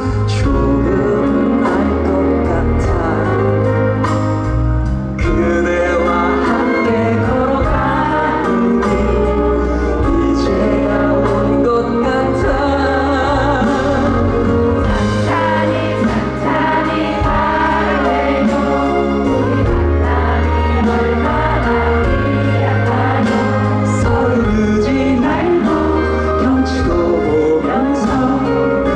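A song performed live with a full band: a singer's voice with backing vocals over steady bass, drums and keyboards, through a concert PA.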